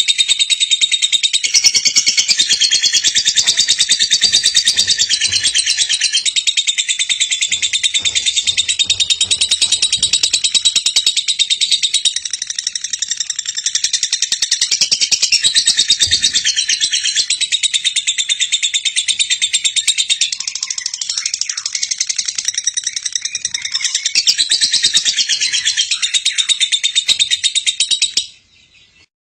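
Female lovebird chattering in a continuous, fast, high-pitched stream of trills and chirps. It breaks off briefly about a second before the end.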